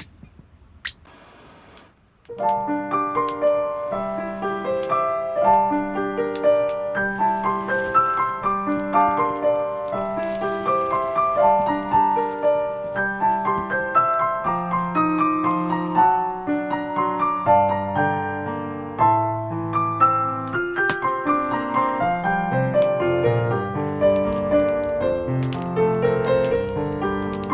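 Background piano music, starting about two seconds in after a quiet moment with a few faint clicks.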